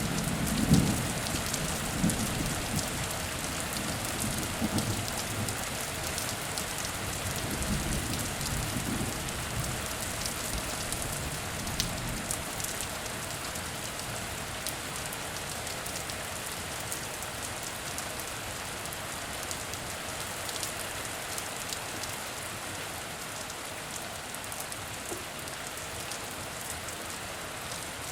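Heavy rain falling steadily, with scattered sharp drop ticks. A low rumble of thunder dies away over the first several seconds.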